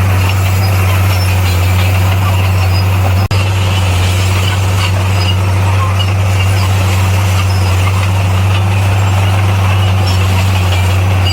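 Bulldozer's diesel engine running steadily with a loud, even low hum, dropping out for an instant about three seconds in.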